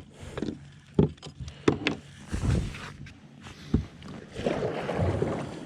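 Handling noise aboard a fishing kayak: a few irregular knocks and bumps, with a rising swish of water near the end.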